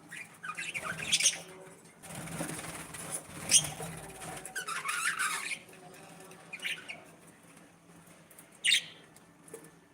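Pet budgerigars chirping and squawking in short calls scattered through the stretch, with the loudest near the end. A noisy rush lasts about two seconds, starting about two seconds in.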